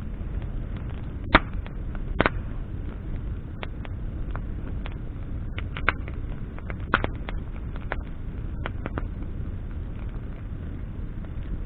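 Wood campfire burning with irregular crackles and sharp pops from the burning branches, the loudest about a second in and another a second later, over a steady low rumble.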